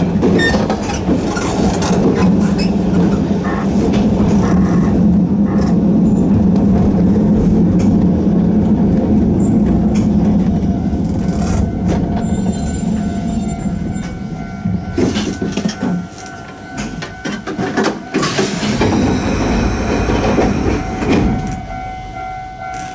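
Inside a Sanshin Railway Hokusei Line narrow-gauge train, its nose-suspended traction motors hum steadily, then fade out about halfway through. Wheels click and knock over the rail joints as the train slows for the station, and a steady tone sounds near the end.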